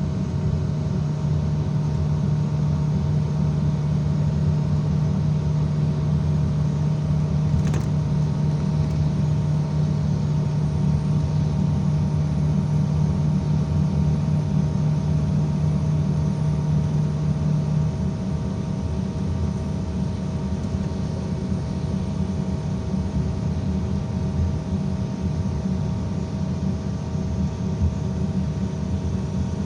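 IVECO Crossway 13M PRO city bus heard from inside the cabin while driving: a steady engine drone with road noise. A strong low hum runs under it and stops about 18 seconds in.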